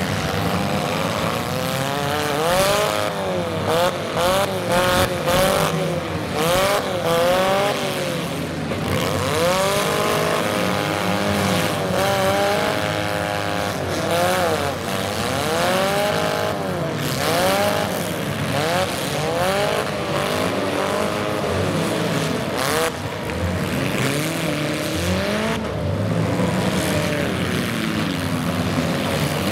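Demolition derby cars' engines revving hard, several at once, their pitch rising and falling over and over as they accelerate and back off, with occasional sharp bangs of car bodies colliding.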